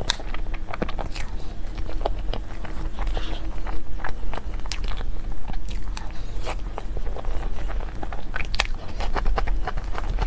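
Close-miked eating of cake and dessert: a person biting and chewing, with dense irregular wet clicks and crackles. A faint steady low hum runs underneath.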